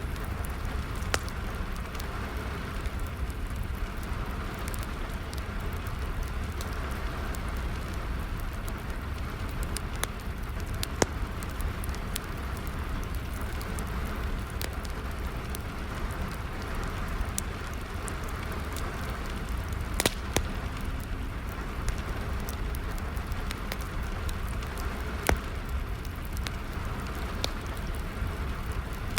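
Steady rain falling along with a wood fire crackling and popping, with sharp pops scattered irregularly over a low rumble.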